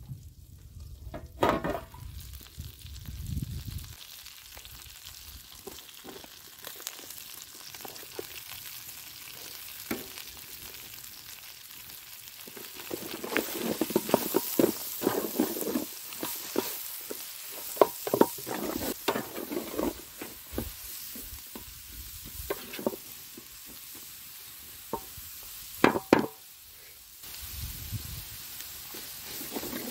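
Chicken frying in a large aluminium pan over a wood fire: a steady sizzle, with scrapes and knocks as food is added to the pan and handled, busiest about halfway through.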